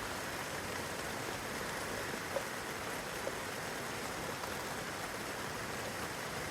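Steady rain falling on leaves and grass, with a couple of slightly louder single drops landing close by, one a little over two seconds in and one about a second later.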